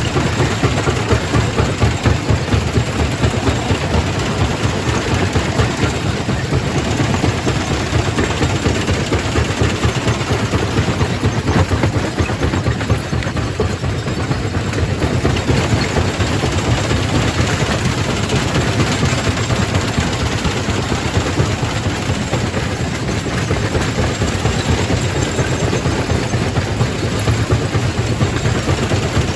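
Quarry primary rock crusher running: a loud, steady heavy mechanical rumble with a fast, even pulsing underneath and no break.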